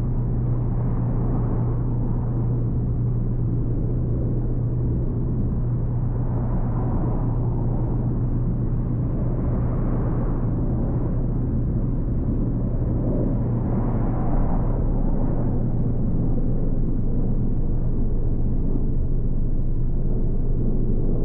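Car driving along a road: a steady low hum with tyre and road rumble, swelling briefly a few times.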